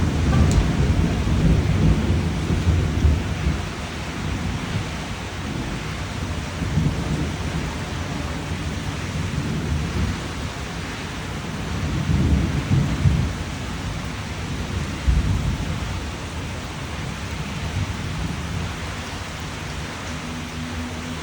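Steady rain with thunder rumbling low, heaviest in the first few seconds and again about twelve and fifteen seconds in.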